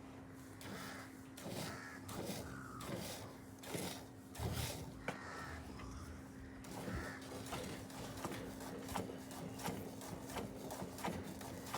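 A cow being milked: rhythmic milking strokes, about two a second in the second half, over a steady low hum.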